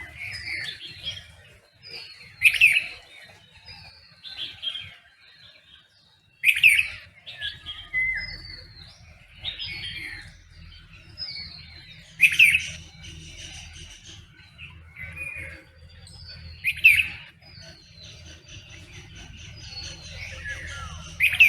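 Several songbirds chirping and calling in a dawn chorus, mostly short falling notes, with one loud sharp call repeated about every four to five seconds.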